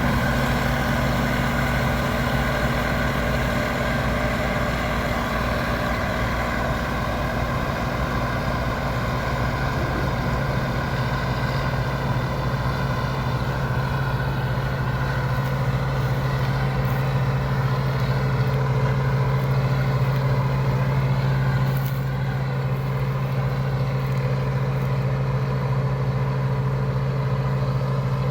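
Engine of harvesting machinery running steadily at a constant speed, a low even hum with a busy mechanical layer above it.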